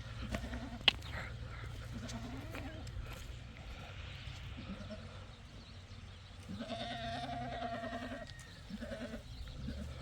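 Sheep bleating, several short bleats and one longer bleat lasting about a second and a half past the middle. There is a single sharp click about a second in, over a steady low rumble.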